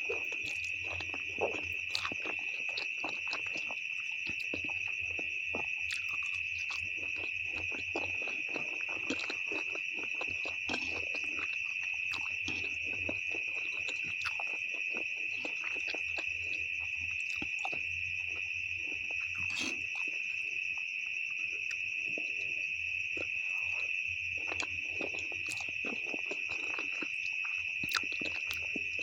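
Close-miked eating of Indomie noodles with beef: scattered wet mouth clicks, smacks and chewing sounds, with a few sharper clicks. A steady high-pitched drone runs under it without a break, over a faint low hum.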